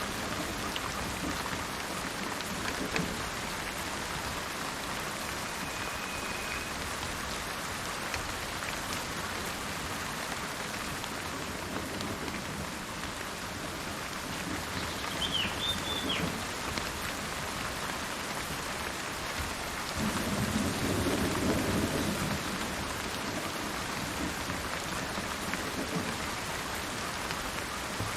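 Steady rain falling, with thunder rumbling low about halfway through and again, louder, a few seconds later. A couple of brief bird chirps sound above the rain.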